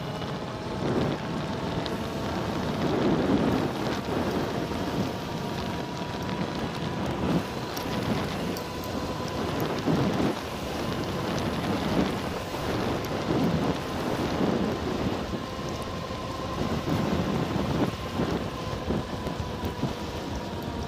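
Ridstar Q20 electric bike's hub motor whining at a steady high pitch under way, with heavy wind buffeting the microphone at speed.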